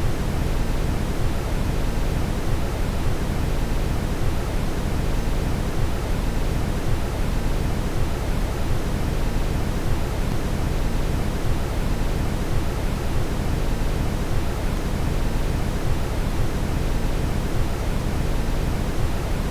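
Steady brown noise: an even, deep rushing hiss, heaviest in the low end and dimmer toward the top.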